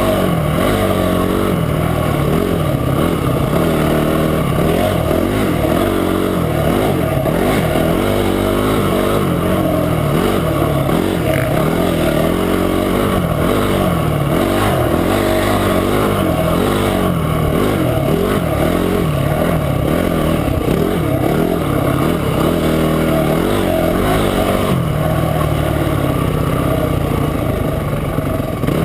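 Motorcycle engine running under load, its pitch rising and falling repeatedly as the throttle is worked. About 25 seconds in it settles to a steadier, lower note.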